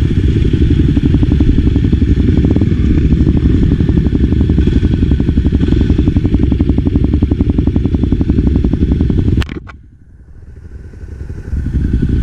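Off-road motorcycle engine running steadily with an even, fast pulse. About three-quarters of the way through the sound drops away abruptly, then builds back up over the next two seconds.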